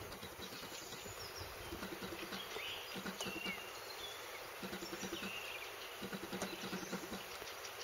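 Small birds chirping a few short times over quiet open-field ambience, with an uneven run of soft low ticks underneath.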